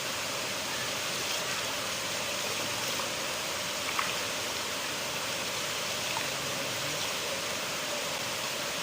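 River water flowing, a steady even rush with a couple of brief, sharper little sounds about three and four seconds in.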